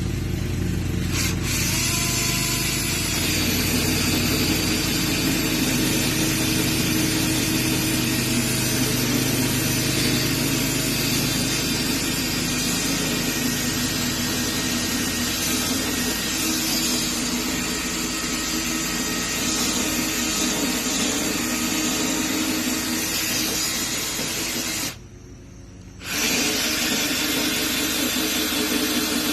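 Milwaukee M18 cordless drill spinning a carbon steel hole saw as it cuts through wood, running steadily; it stops for about a second near the end, then starts cutting again.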